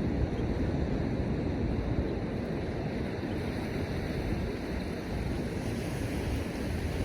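Surf washing on the beach under gusty wind that rumbles and buffets the microphone.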